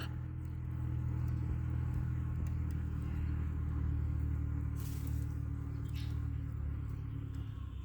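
Steady low mechanical hum that stops suddenly at the end, with two faint brief high chirps about five and six seconds in.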